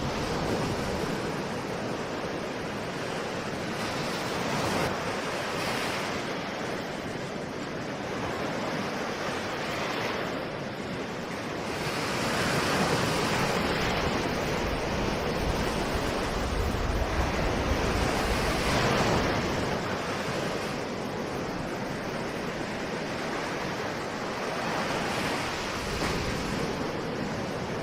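Ocean waves breaking and washing on a shore, a continuous surf rush that swells and eases every few seconds, with some wind noise on the microphone.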